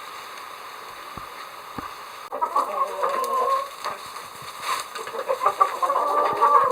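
Chickens clucking, with irregular, pitch-bending calls that start abruptly about two seconds in and grow louder toward the end. Before them there is a steady drone that cuts off at that moment.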